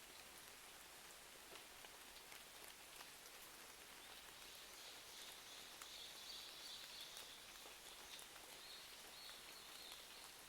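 Faint, steady rain ambience with scattered small crackles and ticks, as from a fireplace. A thin, high steady sound joins about four seconds in and stops shortly before the end.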